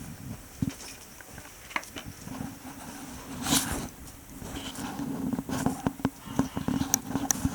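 Goats moving about in a shed: rustling, shuffling and small knocks and clicks, with a louder rustle about halfway through, over a steady low hum.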